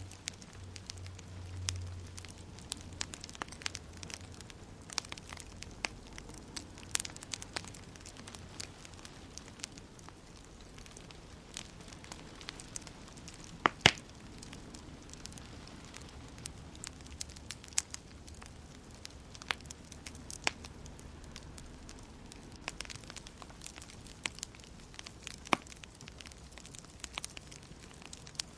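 Wood fire crackling in a fireplace: scattered sharp pops and snaps over a soft, steady hiss, with two louder pops close together about fourteen seconds in. A low hum fades out over the first couple of seconds.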